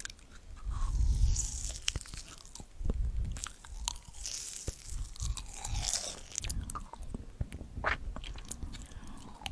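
Close-miked ASMR chewing: repeated crunchy bites and crackles with soft low thuds, at an uneven pace.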